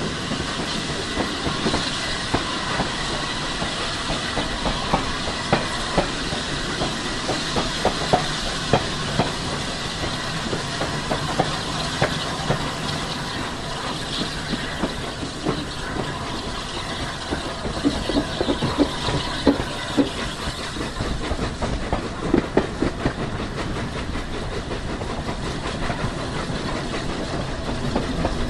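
Steam-hauled train running, heard from a carriage behind LNER A3 Flying Scotsman: a steady rumble and hiss, with the wheels clicking over rail joints. The clicks come thicker about two-thirds of the way through.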